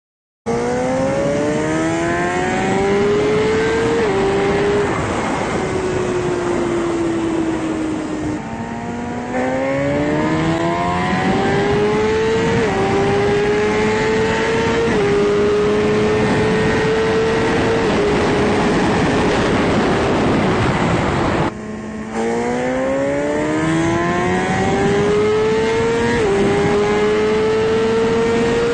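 High-revving sport motorcycle engines at full throttle in roll races, the pitch climbing steadily and dropping back at each upshift. The sound breaks off abruptly twice, about a third and three-quarters of the way in, and starts again on a fresh run from lower revs.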